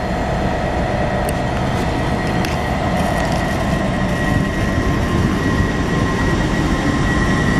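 Great Western Railway Class 800 intercity train pulling away past the platform: a rumble of wheels on rail with a steady high whine, getting a little louder in the first second, then holding.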